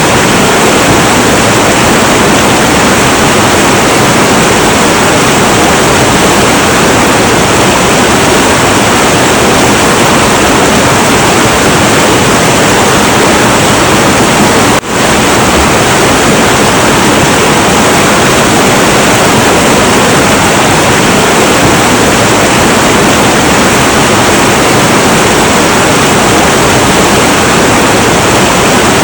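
Heavy, turbulent river water rushing in a loud, steady, unbroken roar. About halfway through the sound drops out for a split second and comes straight back.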